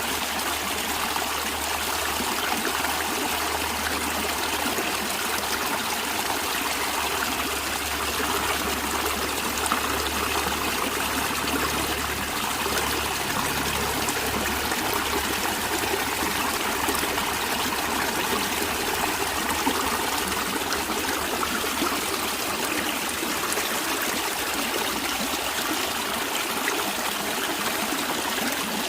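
Stream of water running and trickling steadily.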